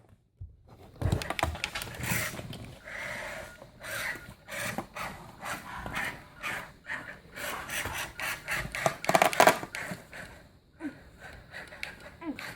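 Irregular clicking, knocking and scraping from a remote-control toy monster truck tangled in a curtain being worked at.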